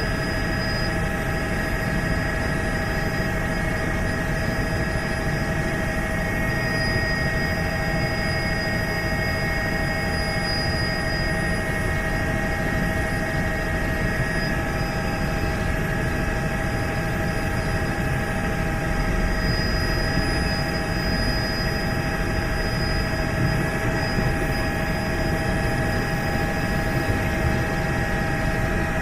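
Helicopter running steadily: dense low rotor and engine noise with several steady whining tones above it, unchanging throughout.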